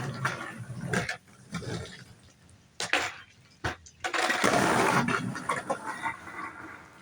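Skateboard wheels rolling on wet pavement with a rushing hiss, broken by a few sharp clacks of the board.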